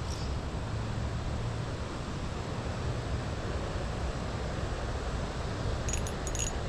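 Wind buffeting the microphone: a steady rushing noise with a low, uneven rumble, and a few light clicks near the end.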